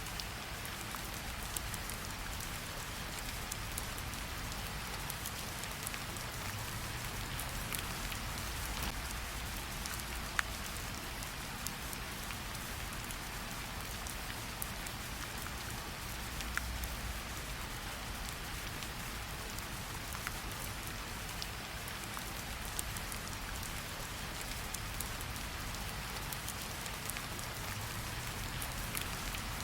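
Steady rainfall with a low rumble underneath, and scattered sharper drop ticks, the clearest about ten seconds in.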